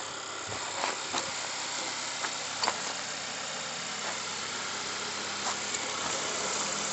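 A 2013 Honda Accord running in drive on a lift with its front wheels spinning freely: a steady running noise with a few sharp clicks. The noise is taken for a bad passenger-side front wheel bearing.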